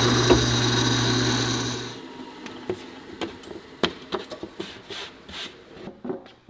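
A power tool working on wood runs steadily and shuts off about two seconds in, followed by scattered light knocks and short scraping strokes of hand work on the wood.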